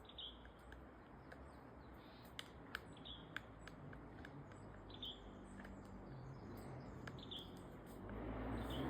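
A bird gives a short, high chirp about every two seconds, with scattered light taps between the chirps. A louder rustling noise builds near the end.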